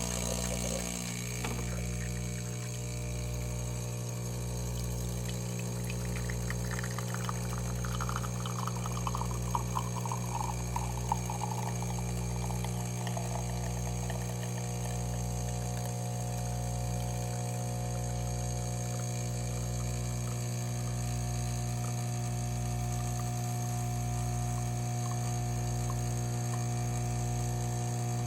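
DeLonghi Magnifica Evo espresso machine's vibratory water pump running with a steady hum as it draws water from the reservoir to brew a coffee. A fainter tone slides down in pitch over several seconds partway through.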